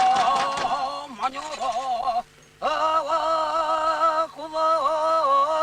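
A man chanting a Nganasan shamanic incantation: long held, wavering sung notes, breaking off briefly for breath about two seconds in. Rhythmic beats fade out in the first moment.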